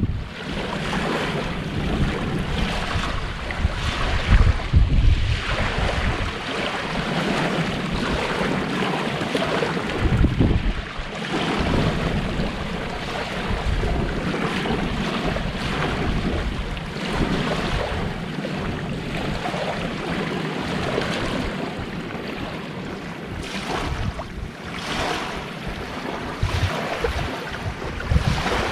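Sea waves washing steadily on a beach, with wind buffeting the microphone in low gusts a few times.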